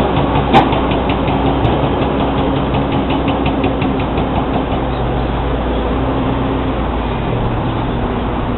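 Heavy engine running steadily, with one sharp knock about half a second in and fast, even ticking over the first few seconds.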